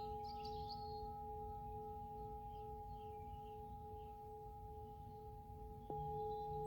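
Singing bowls ringing on with long steady tones, then a lower-pitched bowl struck about six seconds in. Birds chirp faintly over it near the start.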